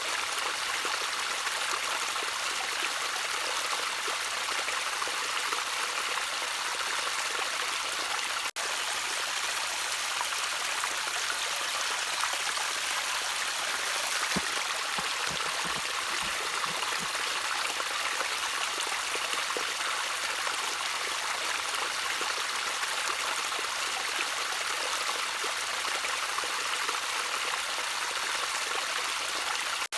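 Gently trickling stream, a steady even rush of water with no change in flow, broken by a split-second dropout about eight seconds in.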